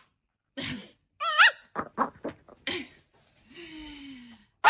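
A dog making a string of short vocal sounds: a brief wavering whine, a few short huffs, then a longer falling groan, with a sharp click near the end.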